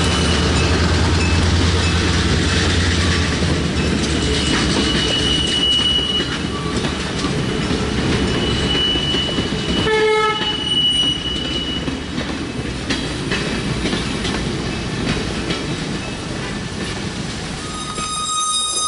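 A train running on the rails, its engine rumbling at first, with long high-pitched wheel squeals. A short pitched toot comes about ten seconds in, and another pitched sound near the end.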